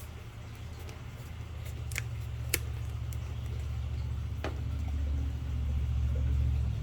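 A low mechanical hum that grows louder and cuts off suddenly near the end, with a few light clicks along the way.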